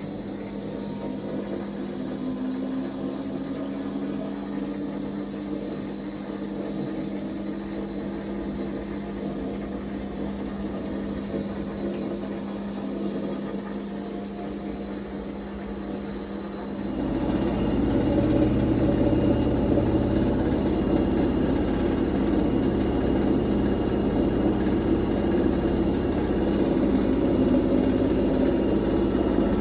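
Fisher & Paykel MW059NZ washing machine running, its motor whine sliding up in pitch in the first few seconds. About 17 seconds in the sound steps up, louder with a deeper rumble, as the drum picks up speed.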